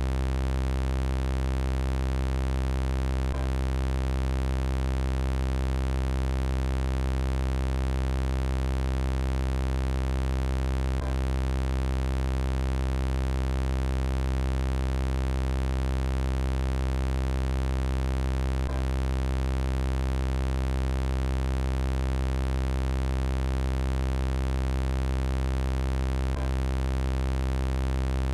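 Synthesized robot sound effect: a steady, low electronic buzz made of many even overtones, unchanging in pitch. A faint click comes about every eight seconds where the loop repeats.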